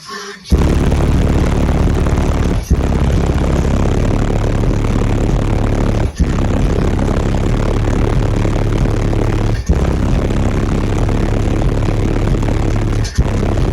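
Semi truck's diesel engine running loud and steady, a deep even drone, starting suddenly about half a second in. It briefly drops out about every three and a half seconds.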